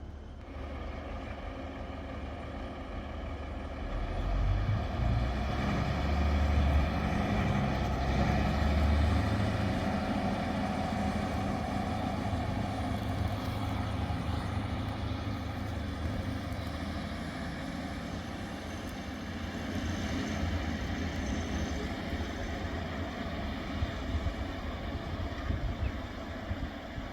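Diesel train engine running, with a low rumble that swells about four seconds in and eases off after about ten.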